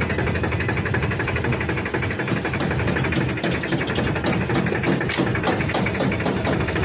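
Tractor engine running steadily with a fast, even pulse, and a few sharp rattling clicks in the second half.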